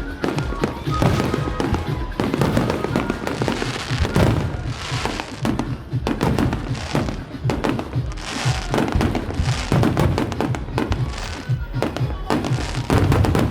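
Fireworks going off without pause: a dense, irregular string of bangs and crackling, with music playing underneath.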